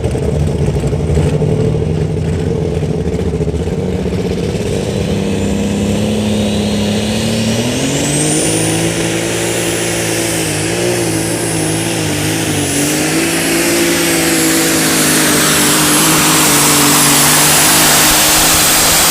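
Turbocharged light super stock pulling tractor engine running hard under load. About seven seconds in, the revs climb and a turbo whine rises to a high, steady whistle that holds to the end of the run, where the engine sound falls away.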